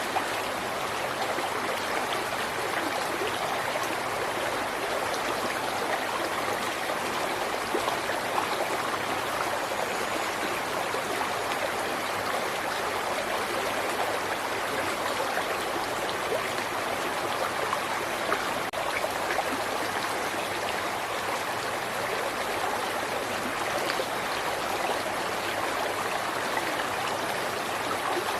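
River water flowing and splashing steadily, an even rushing with small gurgles and splashes throughout.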